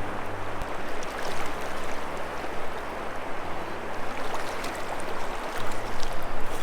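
Rio Grande river water rushing steadily.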